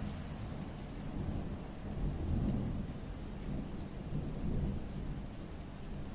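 Steady rain with a low rumble underneath that swells twice, about two seconds in and again around four and a half seconds.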